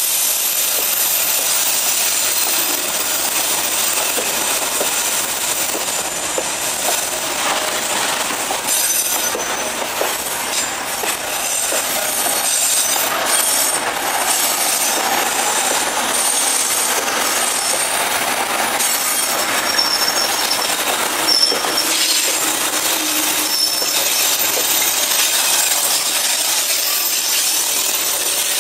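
Boxcars of a Vietnam Railways freight train rolling past close by on a curve: a steady rumble and clatter of wheels on rail, with thin high wheel squeals now and then.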